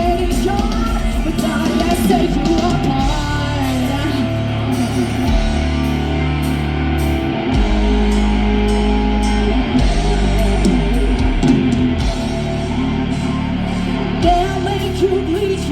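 Live rock band playing at full volume: distorted electric guitars, bass and a drum kit, with a singer.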